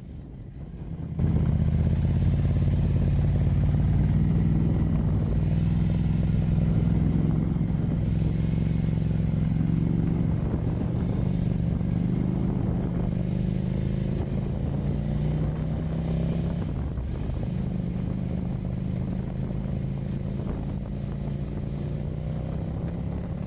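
Ducati motorcycle engine running while riding, starting about a second in and holding a steady note, with a couple of brief dips along the way and the engine note climbing near the end.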